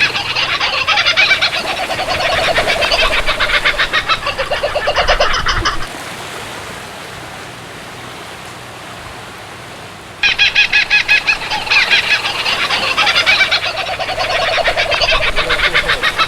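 Birds, likely poultry, calling in fast rattling runs of high notes for about six seconds. A quieter lull follows for about four seconds, then the same rapid calling resumes.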